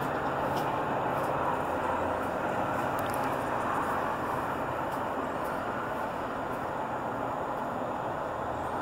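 Steady rumble of a departing Metra commuter train running away down the track, easing slightly toward the end.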